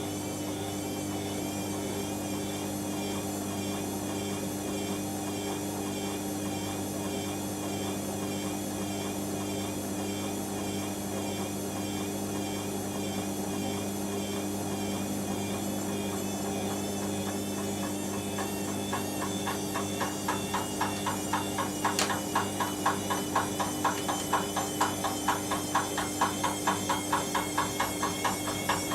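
Washing machine running with a steady motor hum and a wavering whine. About two-thirds of the way in, a regular knocking of two to three strokes a second starts and grows louder as the drum turns, with one sharp click near the end.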